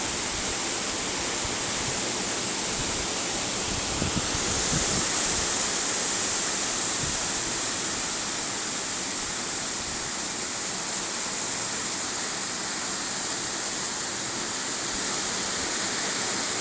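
Steady rushing hiss of water in a hurricane storm, getting slightly louder about four seconds in.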